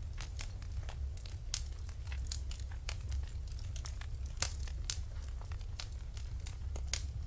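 Wood fire crackling in a fireplace: sharp, irregular pops and snaps over a steady low rumble of the burning.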